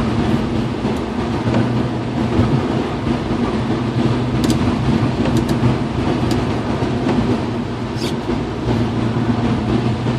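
BMW E36 M3 running at a steady pace on a wet road, heard from inside the car: an even engine drone with tyre and rain noise, and a few sharp ticks.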